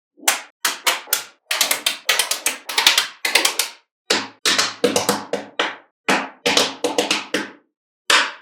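Small magnetic balls clicking and clattering against each other in quick clusters of sharp snaps, with brief silent gaps between the clusters.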